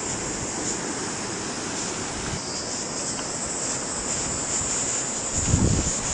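Steady high-pitched drone of summer insects over a low rushing of wind, with a gust buffeting the microphone near the end.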